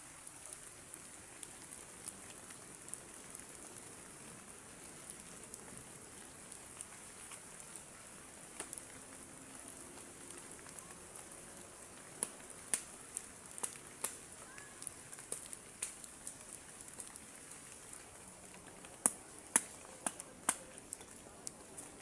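Steady hiss of heavy rain. Sharp taps and clicks are scattered through the second half, with the loudest few near the end.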